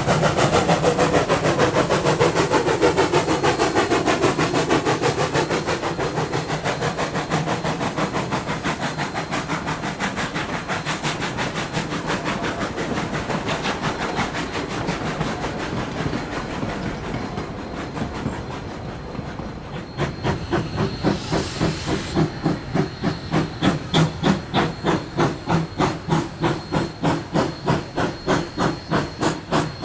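Narrow-gauge steam locomotive working: a dense mix of exhaust and running noise that slowly fades, then from about twenty seconds in a steady beat of exhaust chuffs, about two to three a second, over a steam hiss.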